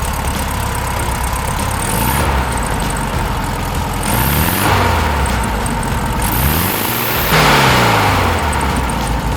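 1968 Volkswagen Beetle's 1500cc air-cooled flat-four engine idling, revved three times with blips of the throttle, each rev rising and falling back to idle.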